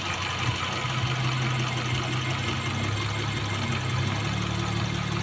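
Car engine idling steadily, the engine that has a misfire problem; its note rises slightly about four seconds in.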